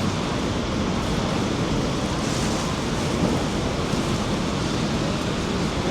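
Steady rushing roar of the Rhine Falls, a large river waterfall, with no breaks or changes.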